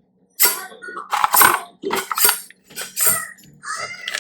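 A kitchen knife drawn again and again through a knife sharpener, a grating metal scrape at about two strokes a second with a ringing edge, the kind of sound said to hurt the teeth.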